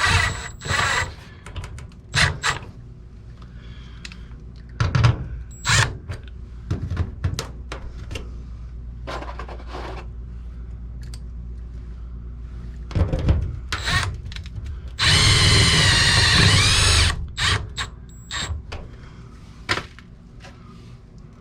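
Cordless drill driving in a screw in one run of about two seconds near the end, its motor whine wavering in pitch. Before it come scattered clicks and knocks of parts and tools being handled.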